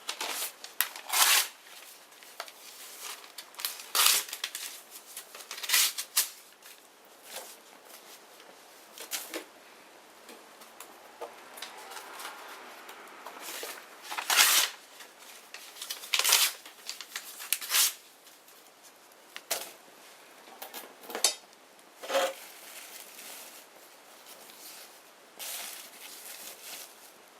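Small bonfire crackling: irregular sharp pops every second or two over a soft hiss.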